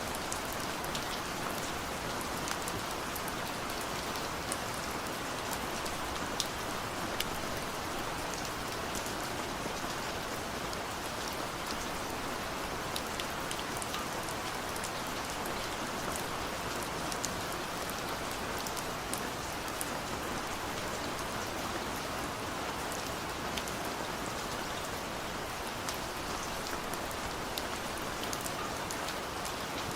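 Steady rain falling on a surface, an even hiss dotted with many sharp ticks of single drops striking.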